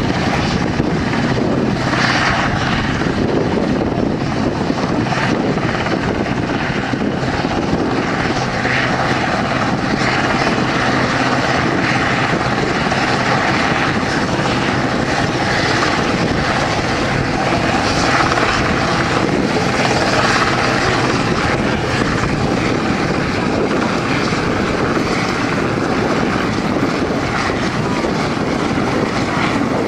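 Helicopter rotor and turbine noise, steady and continuous, with a low hum and a few slight swells in level.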